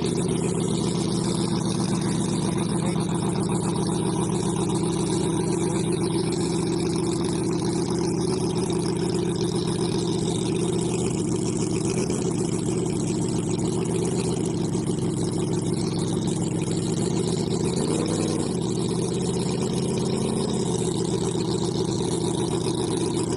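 Model V12 engine running steadily at a constant speed, with a brief wobble in pitch about three-quarters of the way through.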